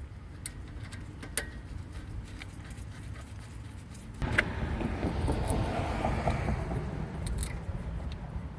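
Metal tool clicks and clinks, then, about halfway through, a louder stretch of rattling and scraping: the rear brake caliper bolt being fitted and run in with hand tools.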